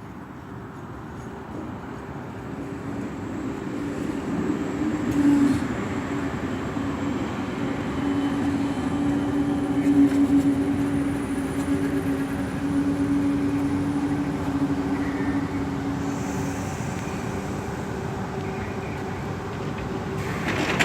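VR Pendolino (Sm3) electric tilting train pulling into the station, its running noise growing louder over the first several seconds, with a steady hum-tone that holds through the middle and fades near the end.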